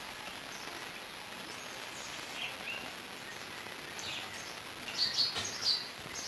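Steady background hiss with a few short high bird chirps, mostly in a cluster near the end.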